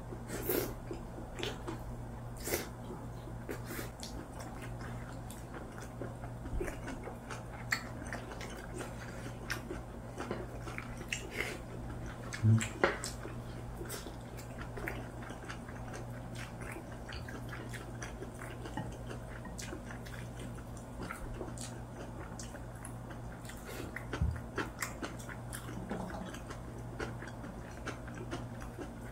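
Two people eating braised pork back ribs: scattered chewing and lip-smacking clicks as meat is bitten off the bones, over a steady low hum. One louder knock about twelve seconds in, and a smaller one near the end.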